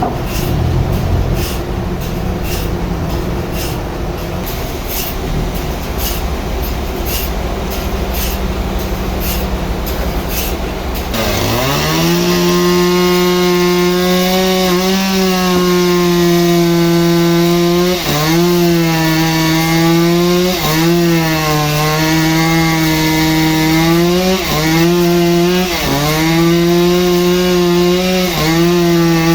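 A low mechanical rumble with a regular ticking, then about eleven seconds in a saw's engine revs up sharply and runs at high speed. Its pitch sags briefly every few seconds as the saw bites into the log.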